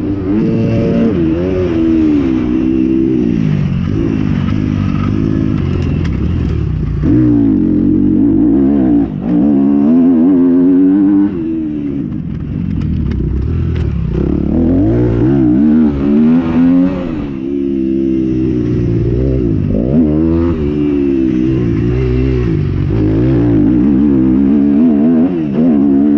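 Motocross motorcycles racing, engines revving hard, their pitch climbing and dropping again and again.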